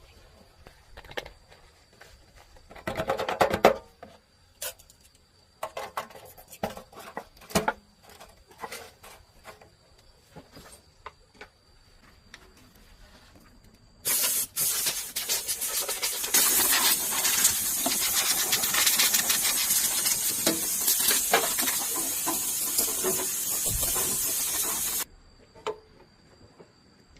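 Scattered clinks and knocks, then a loud, steady spraying hiss of air or liquid under pressure for about eleven seconds that cuts off suddenly.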